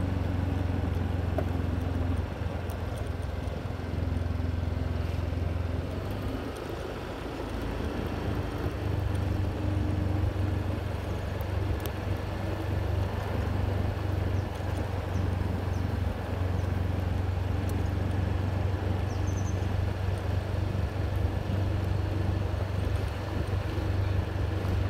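Steady low drone of a motor vehicle running, with engine and road noise. It eases off for a moment about a quarter of the way in, then picks up again.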